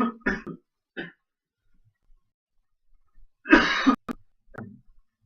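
A man coughing in several short bursts, the loudest about three and a half seconds in.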